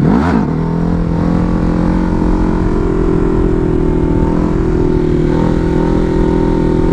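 Ducati Hypermotard's L-twin engine revving up sharply in second gear at the start, then held at steady revs, as the rider pulls and holds a wheelie.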